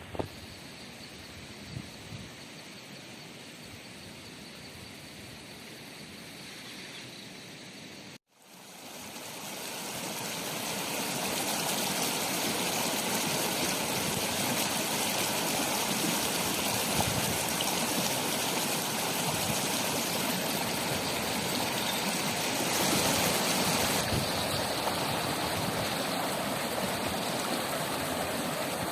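A quieter steady noise for about eight seconds, then a brief dropout. After it, a mountain river rushes steadily, fading up over a few seconds.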